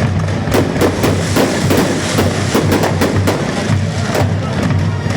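Fireworks display: many sharp bangs and crackles, several a second, over loud accompanying music with a steady low beat.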